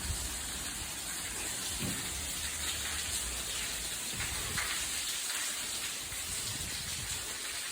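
Steady hiss of falling and dripping water, heard like rain, with a few dull low thumps.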